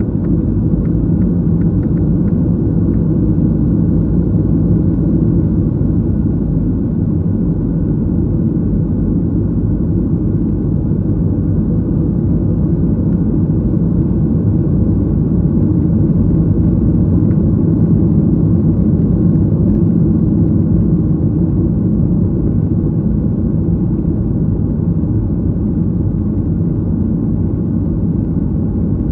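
Airliner cabin noise heard from a window seat: a steady low rumble of the jet engines and air rushing past the fuselage, with no change in pitch or level.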